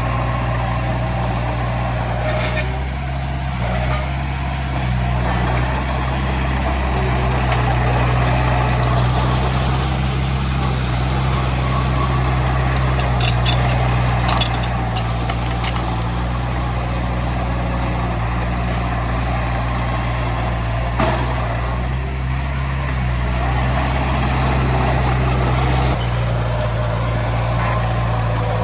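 Heavy diesel engine of earthmoving machinery running steadily under load, its low drone rising and falling a little, with a few short sharp clanks or hisses.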